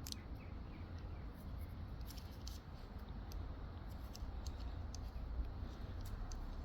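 A few faint, sharp clicks and light handling noises, as of small parts being picked up and set down, over a low steady hum.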